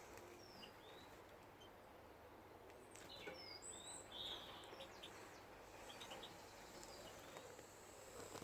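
Faint, scattered short high chirps from small aviary birds, most of them bunched about three to four and a half seconds in.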